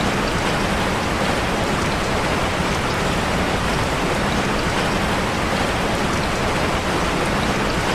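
Steady, heavy rain drumming on a metal roof, a dense even hiss with no breaks.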